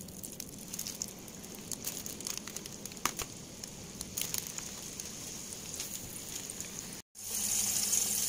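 Melted butter crackling and sizzling in a frying pan as pork-and-beef burger patties are laid in to pan-fry. After a brief break about seven seconds in, the sizzle is steadier and louder.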